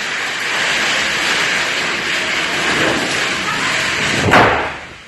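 Heavy rain pouring down, a steady loud hiss. About four seconds in there is one sudden sharp crack, after which the rain noise drops away.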